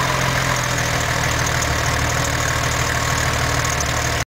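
2004 Porsche 996 GT3's flat-six engine idling steadily through its exhaust; the sound cuts off suddenly near the end.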